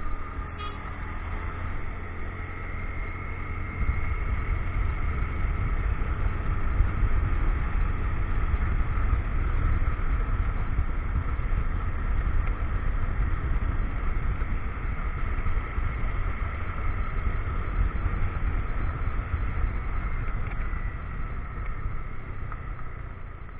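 Motorcycle being ridden at a steady pace: the engine runs on with a continuous low rumble.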